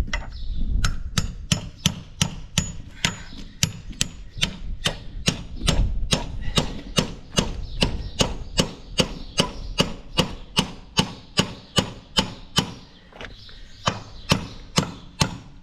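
Hammer blows, steady and even at about three a second, driving a tight-fitting piece of gate hardware into a drilled hole in a new wooden gate.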